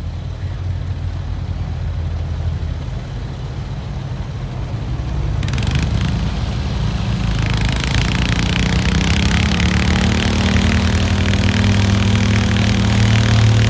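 Pulling tractor's engine running low at first, then about five seconds in opening up: the engine note climbs slowly and grows louder as it works under load.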